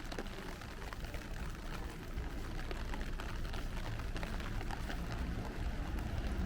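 Rain falling on a city street, many small drops pattering over a steady hiss, with a low rumble underneath.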